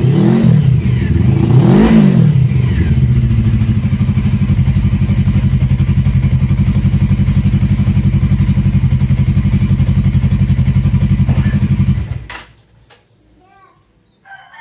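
Suzuki Inazuma 250's parallel-twin engine, through a custom exhaust, revved in two quick blips, then idling with a steady even pulse until it is switched off about twelve seconds in.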